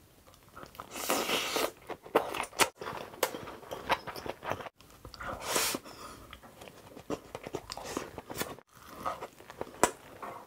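Close-miked biting and chewing of big mouthfuls of white rice and kimchi: wet mouth sounds with many sharp clicks, broken by a few brief cuts.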